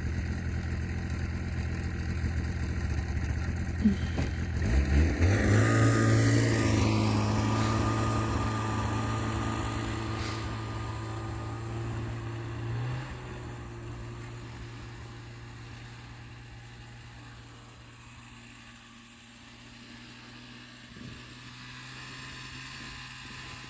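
Snowmobile engine running, revving up about five seconds in as it pulls away, then fading gradually as it moves off.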